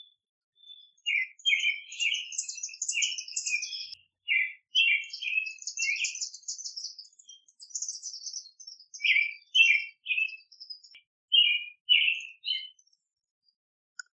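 Songbirds chirping and calling in quick runs of short notes and fast high trills, with a short lull in the middle.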